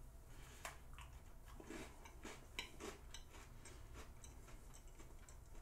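Faint crunching of a hojicha sable, a crisp butter cookie, being bitten and chewed: small irregular crackles and clicks.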